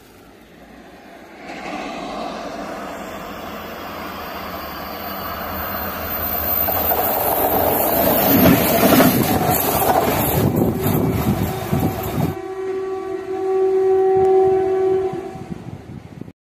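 A train hauled by a WDP4D diesel-electric locomotive passing close by: the engine and the rumble and clatter of wheels on the rails build over several seconds and are loudest about two-thirds of the way through. The sound cuts off suddenly, and a steady held tone follows for a few seconds.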